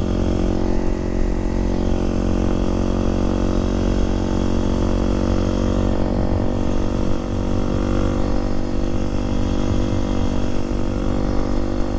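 Kawasaki KLX300SM supermoto's single-cylinder four-stroke engine running at a steady cruising speed, with its pitch holding nearly constant.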